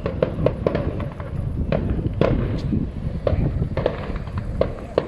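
Fireworks display: shells bursting in quick, irregular bangs, several a second at times, over a continuous low rumble.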